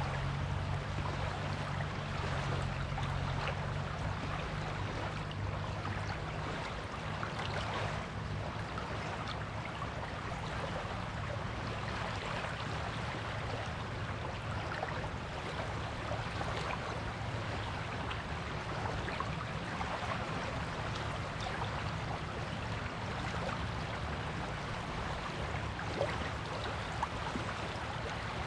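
Small waves washing and fizzing on a beach, a steady crackling hiss of water. A low hum underneath fades out over the first several seconds.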